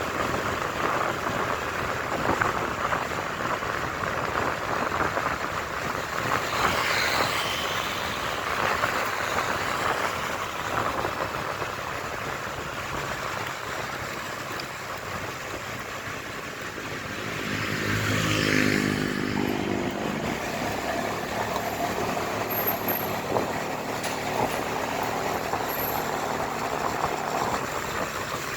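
Riding noise on a motorcycle: a steady rush of wind and road noise with engine sound. About two-thirds of the way through, a louder engine swells up and fades away, like a vehicle passing close by.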